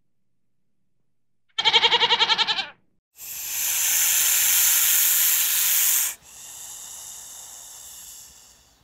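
A short, wavering bleat about a second and a half in, followed by a long, loud hiss lasting about three seconds, then a quieter hiss that fades out near the end.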